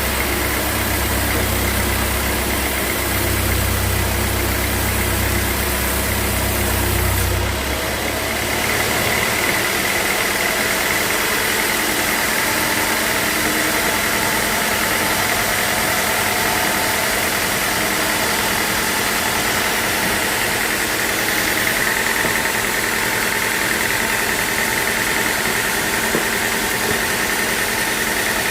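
Sawmill machinery running steadily: a constant mechanical drone with a faint high whine. A deep low rumble under it stops about seven and a half seconds in.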